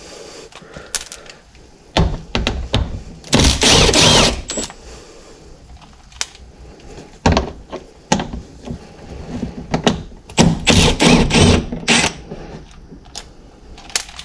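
Ratchet clicking in several quick runs as 10 mm bolts are backed out.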